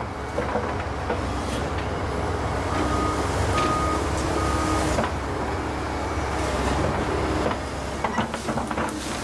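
Volvo ECR145EL excavator running under load, its engine and hydraulics working steadily. Three short beeps sound in the middle, and a run of sharp knocks and cracks comes near the end.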